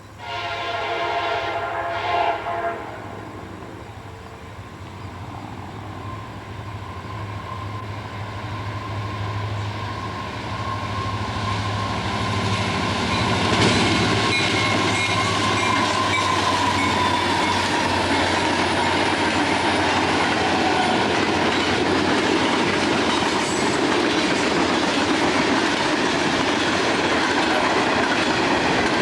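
Diesel locomotive horn sounds about two and a half seconds, with a short extra blast at the end. Then the train's engine rumble and rolling wheels build up as it passes, turning into a loud, steady run of wheels on rail.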